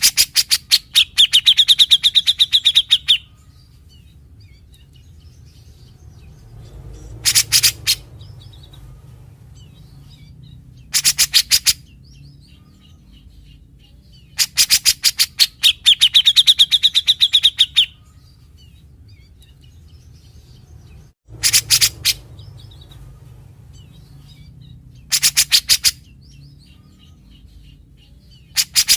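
Cucak jenggot (brown-cheeked bulbul) giving its characteristic harsh rattling calls (besetan), bouts of very rapid rasping notes every few seconds. The longer bouts run up to about three seconds with a whistled tone under the rattle.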